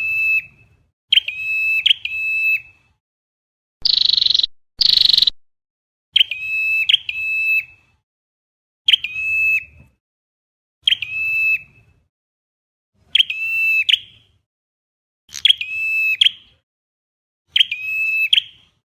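Recorded calls of a red-headed flowerpecker ('chim sâu đầu đỏ'), played on a loop as a trapping lure. Short, high, ringing calls repeat about every two seconds, each a sharp note followed by one or two clear notes, with two harsh hissing bursts about four seconds in.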